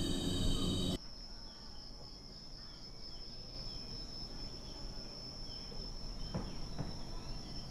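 Rainforest insects droning steadily at a high pitch, with faint bird chirps over them. The level drops suddenly about a second in, and there are two soft knocks near the end.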